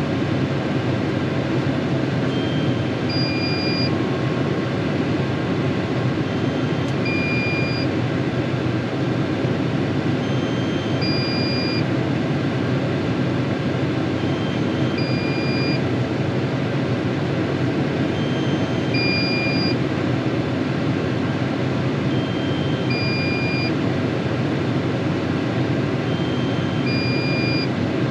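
Tractor engine running steadily, heard from inside the cab. A short two-note electronic warning beep repeats about every four seconds, a fainter note followed by a higher, stronger one.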